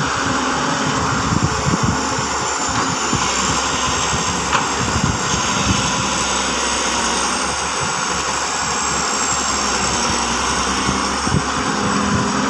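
Hyundai 130 excavator's diesel engine running steadily, with a thin high whine held over it.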